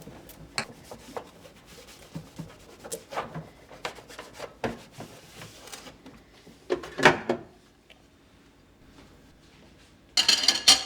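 Kitchen items being handled during cleaning: a string of light knocks and clicks, a louder clatter about seven seconds in, and a short noisy burst near the end.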